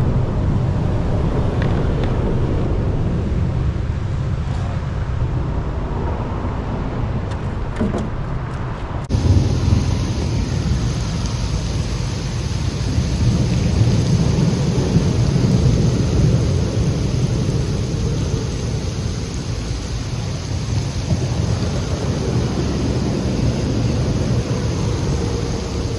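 Steady rain and wind buffeting the microphone: a constant low rumble under a hiss of rain. The sound shifts abruptly about nine seconds in.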